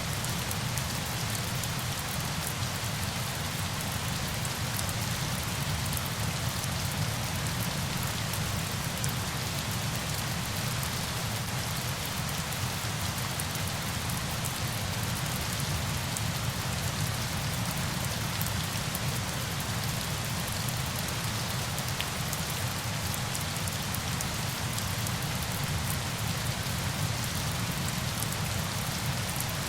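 Steady hiss of falling water with a low rumble underneath and a fine crackle of drops.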